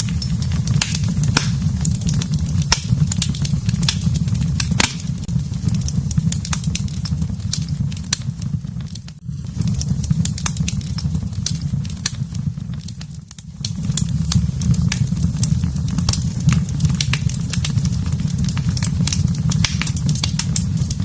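Wood fire burning in a fireplace, crackling and popping many times over a steady low rumble. The level briefly dips twice near the middle.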